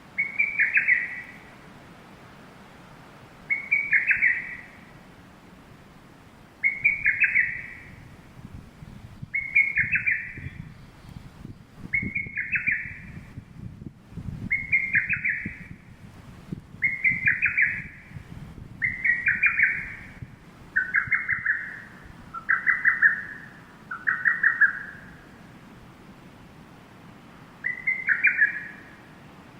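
A bird calling: about a dozen short rattling calls, each made of rapid notes and lasting about a second, repeated every two to three seconds, with a pause near the end.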